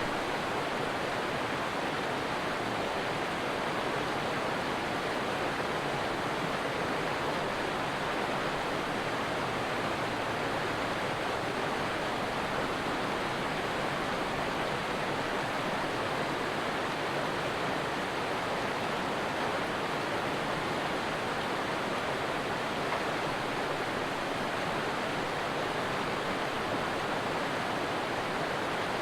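Stream water rushing in a steady, unbroken hiss with no splashes or other events standing out.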